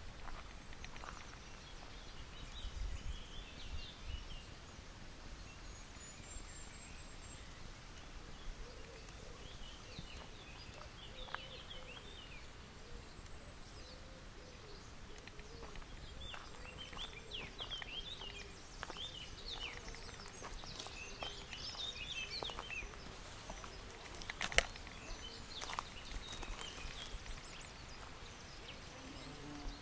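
Wild birds chirping and calling here and there in woodland, more often in the second half, over a quiet outdoor background. A single sharp click stands out about three-quarters of the way through.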